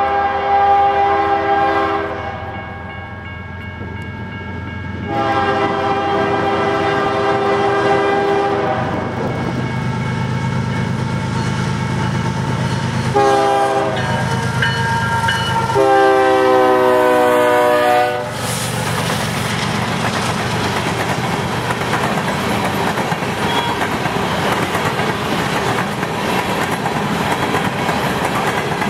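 Locomotive air horn on a BNSF GE ES44AC sounding a chord of several notes in the grade-crossing pattern: long, long, short, long. From about eighteen seconds in, the locomotives pass and a string of empty coal hopper cars rolls by with a steady clickety-clack of wheels over the rail joints.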